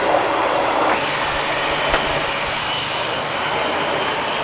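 An 1,100 W Dyson vacuum cleaner's motor running steadily at full power, a continuous rushing air noise with a thin, steady high whine.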